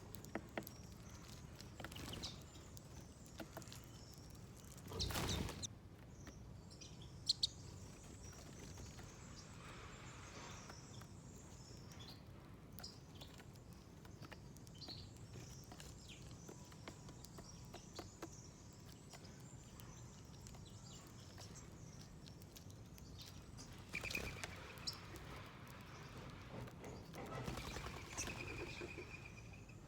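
Wild birds chirping now and then, with a brief rustling burst about five seconds in and a trilled call near the end.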